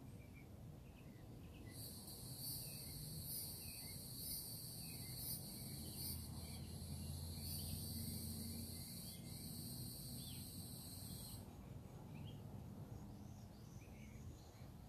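A high-pitched, steady insect buzz comes in about two seconds in and cuts off abruptly about eleven seconds in, over faint scattered bird chirps. A low hum joins in the middle of the buzz.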